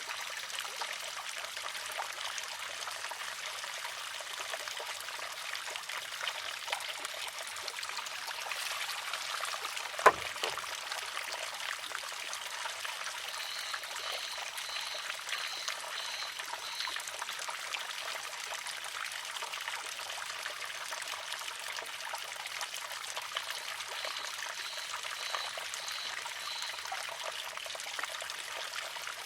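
Water trickles steadily into and out of a wooden shishi-odoshi. About ten seconds in comes one sharp clack as the filled arm tips over and strikes the stone, with a short low resonance after it. Faint runs of high, quick repeated pips sound twice in the later part.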